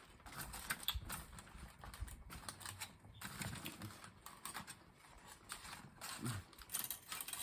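Close-miked chewing and biting of corn on the cob: irregular wet clicks and smacks of the mouth, with a brief low hum of appreciation twice.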